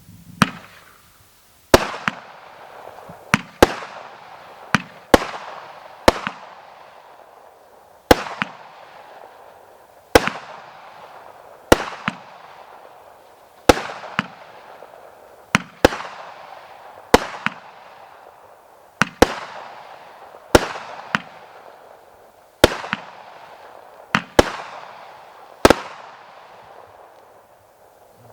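A 200-gram consumer fireworks cake firing its shots in sequence: about twenty sharp bangs, roughly one a second and sometimes two in quick succession, each trailing off over a second or so.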